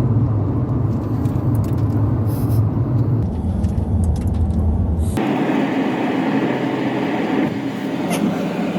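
Road noise of a moving car: a steady low rumble. About five seconds in, it gives way abruptly to a thinner, hissier noise without the rumble.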